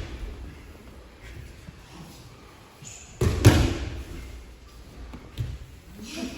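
A body landing heavily on training mats in an aikido breakfall after a throw, a single loud thud about three seconds in that rings out in a large hall, with a lighter thump a couple of seconds later.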